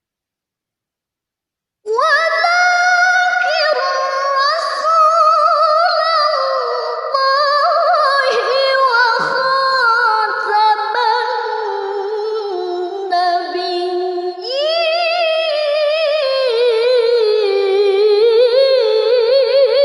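A woman chanting Quran recitation in a melodic, drawn-out style, holding long ornamented phrases with wavering pitch. It starts about two seconds in, and a new phrase begins after a short breath about fourteen seconds in.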